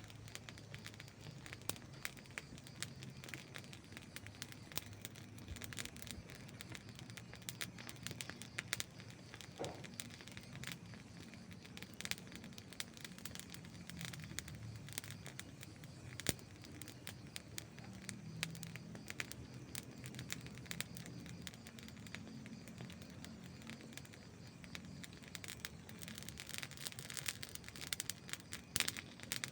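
Wood campfire crackling, with irregular sharp pops and snaps over a low, steady burning hiss. One louder pop comes about halfway through, and the crackling grows denser near the end.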